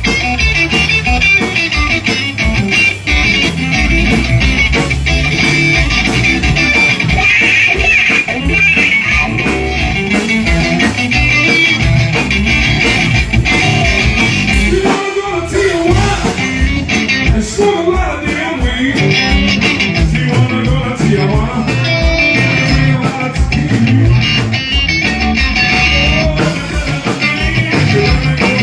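Live blues band playing, with guitar to the fore over a steady low rhythm section.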